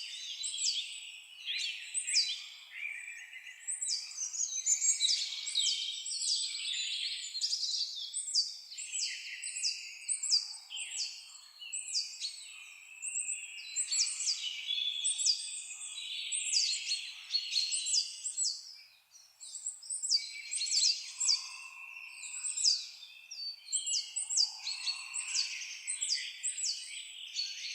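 Dense chorus of songbirds chirping: rapid, high, sharply falling notes, several a second, over lower warbling, with a brief lull about two-thirds of the way through.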